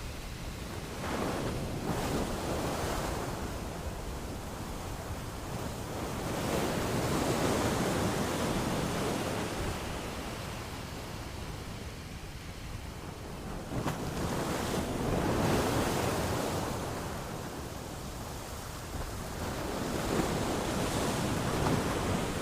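Ocean waves breaking and washing onto a beach, surging and ebbing in slow swells every several seconds.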